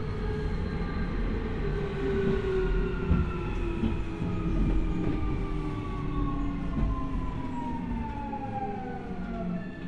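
Keio 1000 series (3rd batch) electric train braking: the VVVF inverter and traction motor whine falls steadily in pitch as the train slows for a station, over a low rolling rumble of wheels on rail. Right at the end a steady, unchanging inverter tone takes over.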